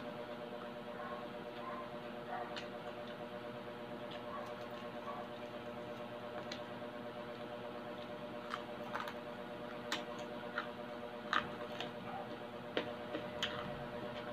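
Close-miked eating of crispy fried pork belly: chewing and mouth sounds with scattered sharp crunchy clicks, more of them in the second half, over a steady low hum.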